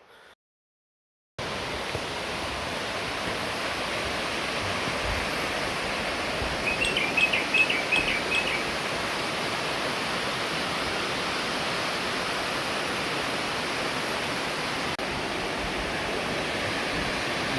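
Pelverata Falls, a 114-metre waterfall, rushing with a steady, even roar of falling water, starting abruptly after a moment of silence about a second in. A short run of high bird chirps comes through about seven seconds in.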